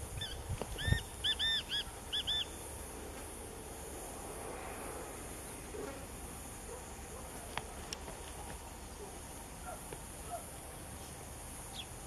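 A bird gives a quick run of short, arched calls over the first two and a half seconds, with a dull thump about a second in. After that there is only a steady high insect hiss and a few faint chirps.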